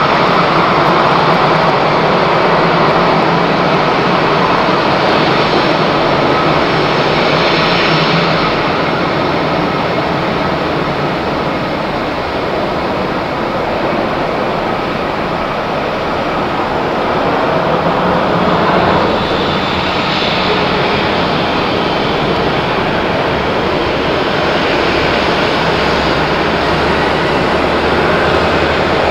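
Jet airliner engines running loud and steady, a wide rushing noise with a few faint steady tones in it.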